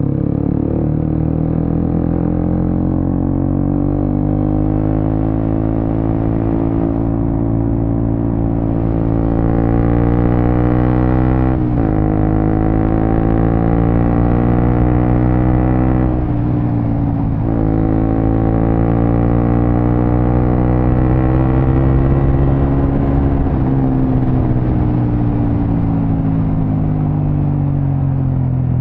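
Suzuki GSX-S150's single-cylinder engine running through a Quinze Big Volume aftermarket exhaust, revs climbing under acceleration. The pitch drops sharply twice, about twelve and sixteen seconds in, as the rider shifts up. The revs fall gradually over the last few seconds as the throttle eases off.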